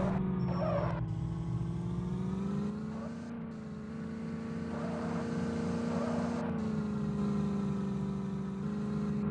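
Tractor engine running steadily. Its pitch rises slightly about three seconds in and settles back down near the end.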